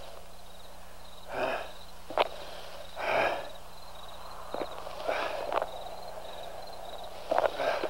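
A person breathing heavily, with loud breathy gasps about every two seconds and a few sharp snaps in between.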